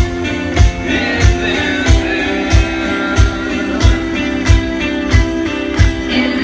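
Live rock band playing an instrumental passage: guitars over a steady kick-drum beat about every two-thirds of a second, with a lead guitar line sliding between notes in the first half.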